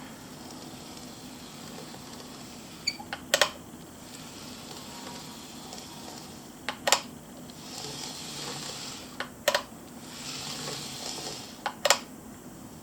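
Four sharp double clicks, each a light click followed closely by a louder one, spaced a few seconds apart over a steady hiss.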